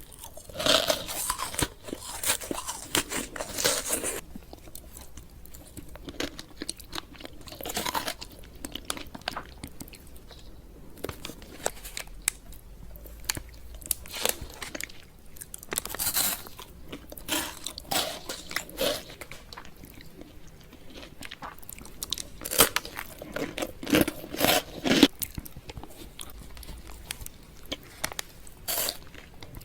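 A person biting and chewing crunchy chocolate candy, with irregular crunches throughout and louder bites now and then.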